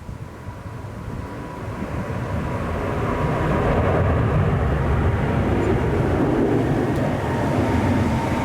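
Jet airliner's engines running: a heavy rushing noise that grows louder over the first few seconds and then holds steady, with a thin whine early on.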